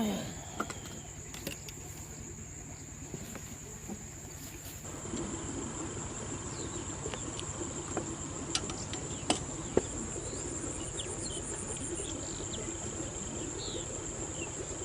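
Insects calling outdoors, a steady high-pitched drone held on one tone, with a few faint clicks and small chirps over it. A brief falling sound is heard right at the start.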